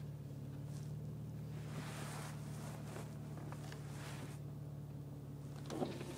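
Car idling with a steady low hum while reversing with the steering turned. A rushing noise swells and fades about two seconds in, with a few clicks near the end: the odd noise that comes from the front left wheel area when reversing, turning the wheel and parking.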